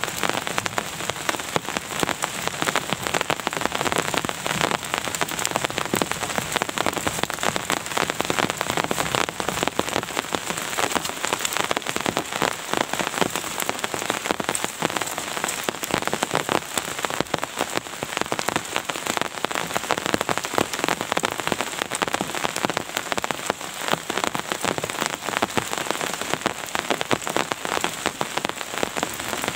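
Steady rain, a dense, even mass of drop hits on a surface close by, with no letup.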